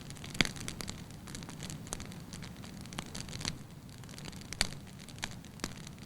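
Burning wood logs crackling, with irregular sharp pops over a low steady hiss of flames; the two loudest pops come about half a second in and at about four and a half seconds.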